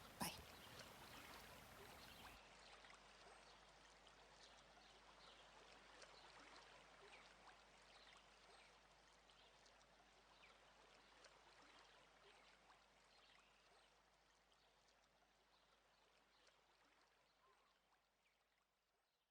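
Faint running, trickling water with small scattered drips or ticks, fading out to silence near the end.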